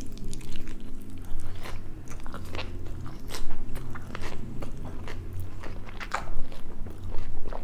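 Close-miked eating: a person biting into a cheeseburger and chewing it with fries, with irregular wet crunches and clicks.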